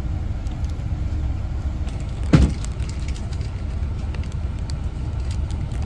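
Steady low rumble of a moving bus heard from inside the cabin, with a single thump about two and a half seconds in.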